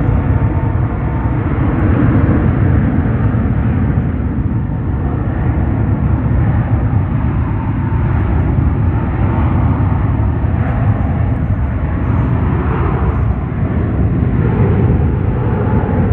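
Jet airliner engines making a loud, steady rumble that swells and eases slightly without stopping.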